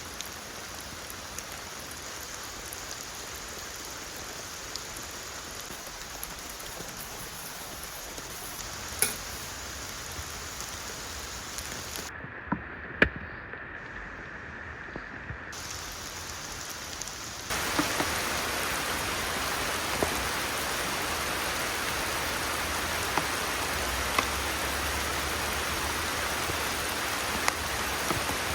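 Steady rain falling, with scattered louder drops. The rain is briefly muffled near the middle, then becomes heavier and louder for the last third.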